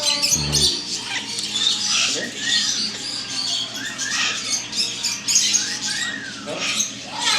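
Caged parrots chattering and squawking, with short rise-and-fall calls repeating every second or two over a steady, busy background of bird chatter.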